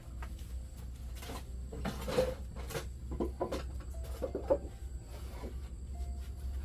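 Bowls and chopsticks being handled: scattered light knocks and clicks.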